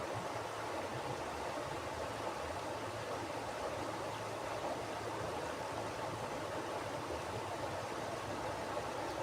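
Mountain river flowing over rocks: a steady rushing of water with a low rumble beneath.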